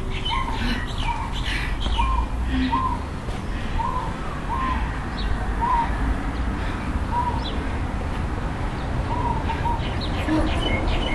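Birds chirping: a short call repeats about once a second, with fainter higher chirps, over a steady low rumble.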